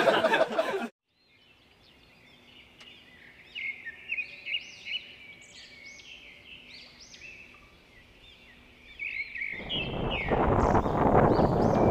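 Small birds singing in a run of short, arching chirps repeated over several seconds. Near the end, wind rushing over the microphone covers them.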